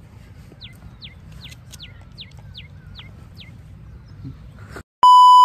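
A bird calling over and over, each call a short chirp sliding down in pitch, about two a second. Near the end the sound cuts out and a loud, steady electronic beep tone comes in.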